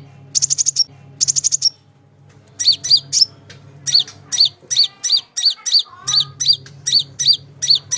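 Konin (kolibri ninja sunbird) singing: a fast run of sharp, high chirps, about four a second, with two quick rattling trills in the first two seconds and a short pause around two seconds in. A low hum runs under parts of it.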